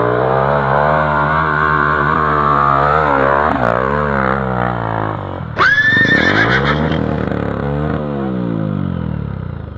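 Off-road motorcycle engine revving up and down repeatedly as the bike is ridden, with a sudden high-pitched squeal about five and a half seconds in; the engine sound then fades near the end.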